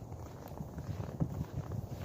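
Footsteps of a person walking on snow, heard as dull, uneven low thuds.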